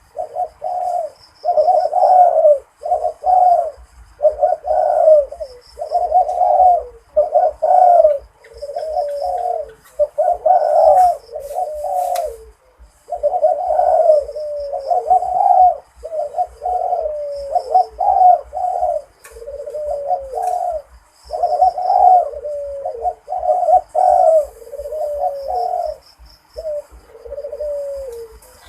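Zebra dove cooing in a long run of repeated short phrases, each a rapid, rolling set of notes, some ending in a falling glide, with brief gaps between them. The phrasing is of the Malay-rhythm type prized in dove-cooing contests.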